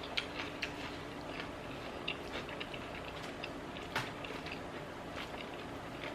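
A person chewing food close to the microphone: soft, irregular small wet clicks and smacks of the mouth, one sharper click about four seconds in.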